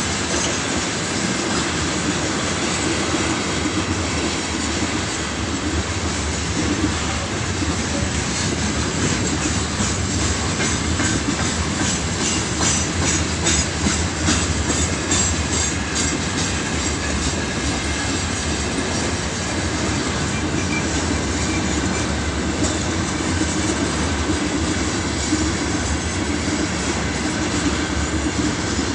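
Freight train rolling past at speed, a steady rumble of wagons with a run of rhythmic wheel clicks over rail joints in the middle.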